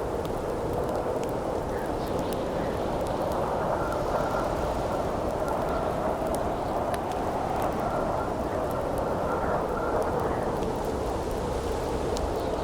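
Steady howling wind with a faint whistle coming and going, over a crackling campfire with scattered sharp pops and snaps.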